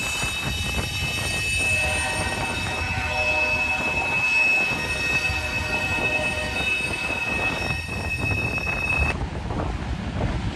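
Freight train of empty ethanol tank cars rolling through a curve, its wheels squealing on the rails: a steady high-pitched squeal over the rumble of the cars that stops about a second before the end. Wind buffets the microphone.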